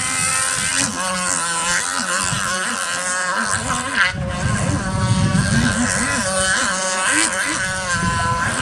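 Small pull-start nitro glow engine of an RC jet ski running hard, its pitch wavering up and down as the throttle and load change. There is one sharp slap about four seconds in.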